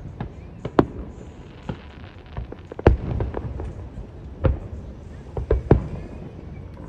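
Aerial fireworks bursting in an uneven run of booms and sharp cracks, several close together, the loudest about three seconds in.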